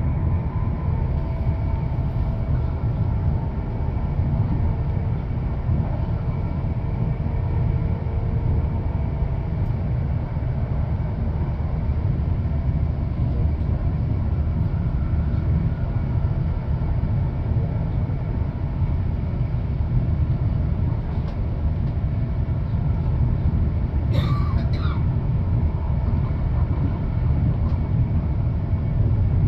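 Steady low rumble of a London Northwestern Railway passenger train running at speed, heard from inside the carriage. A brief clatter comes near the end.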